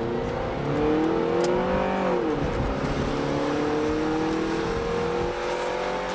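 1992 Honda Prelude Si's four-cylinder engine accelerating, heard inside the cabin. Its pitch rises for about two seconds, drops a little after two seconds in as the automatic transmission upshifts, then climbs slowly again.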